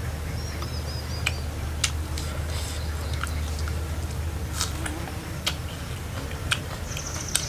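A person eating chicken fry: scattered short clicks and crunches of chewing and biting over a steady low hum.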